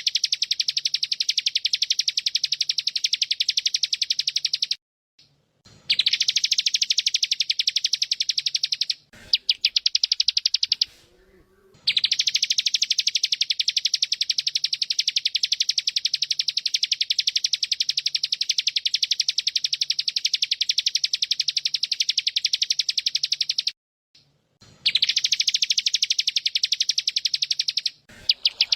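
Bren cicada buzzing: a loud, fast, even pulsing drone held for long runs of several seconds, broken by a few short pauses.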